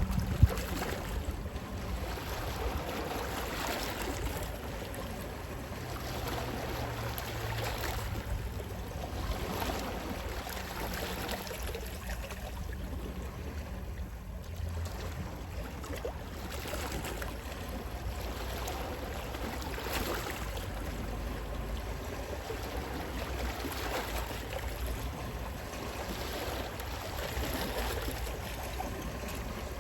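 Gentle sea waves washing in and out, swelling softly every few seconds over a low rumble of sea wind, with one brief knock about half a second in.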